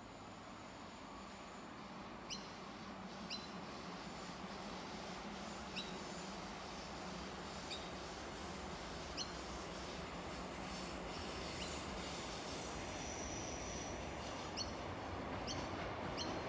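A century-old Tait electric suburban train approaching along the line, its rumble on the rails slowly growing louder. A few short high chirps sound now and then.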